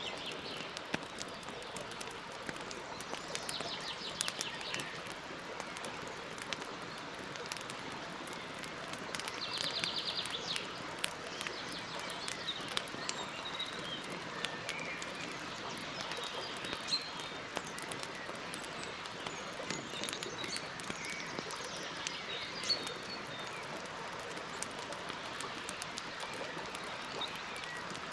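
Campfire crackling with many small scattered pops over a steady hiss, while birds chirp in the background, with a couple of short buzzy trills.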